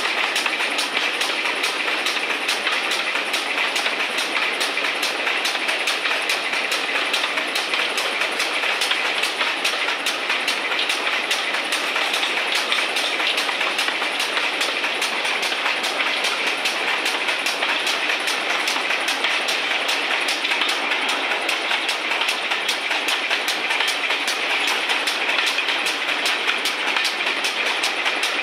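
Steam-hauled heritage train on the move, heard from a carriage behind the locomotive: a steady run of wheels on the rails with a quick, even clickety-clack.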